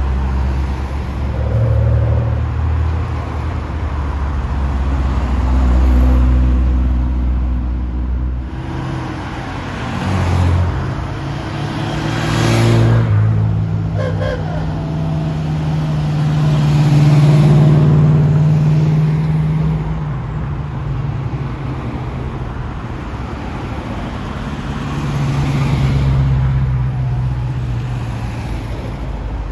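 Historic vehicles' engines running on the road, several passing in turn, the loudest passing close about twelve seconds in.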